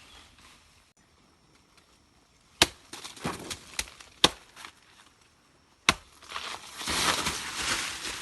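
Three sharp, loud strikes, each like a chop, with smaller crackling clicks after the first. Near the end comes a longer crunching, rustling noise.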